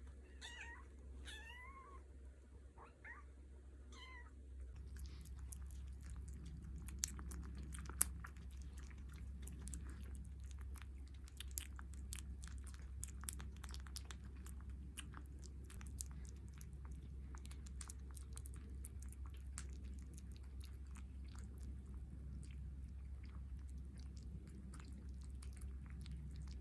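Kittens mewing several times in short rising and falling calls during the first few seconds, then a long run of small quick clicks and crackles, with a few louder ticks, typical of cats chewing.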